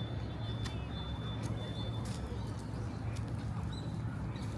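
Outdoor park ambience during a walk: scattered footstep-like clicks over a steady low rumble. A thin, steady high tone runs through about the first two seconds, then stops.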